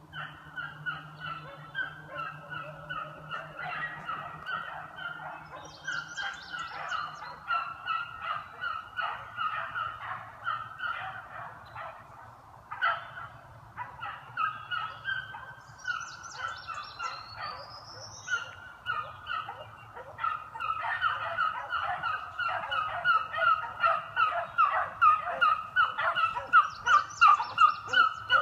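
A pack of beagles baying on a running track, many voices overlapping in rapid, repeated bays. They grow louder over the last several seconds as the pack comes closer.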